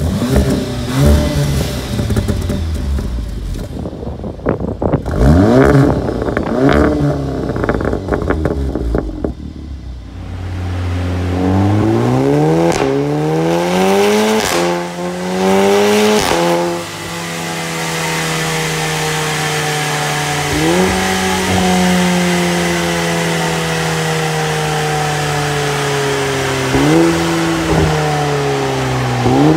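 VW Golf 7 R's turbocharged four-cylinder engine through an EVOX Valvetronic aftermarket exhaust with midpipe: a few quick revs, then hard acceleration through two gears with a drop in pitch at the shift, then the revs falling away slowly with three short throttle-blipped jumps, as on downshifts.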